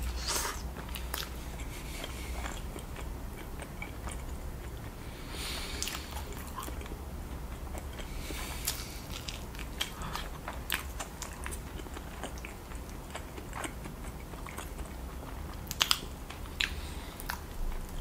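A person biting and chewing sauce-covered rotisserie chicken, with wet mouth clicks and smacks scattered irregularly throughout.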